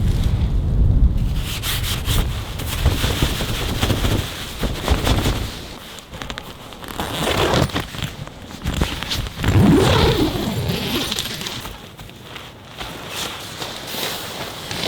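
Rustling and rubbing handling noises with scattered crackles. A low wind rumble on the microphone dies away after about the first second.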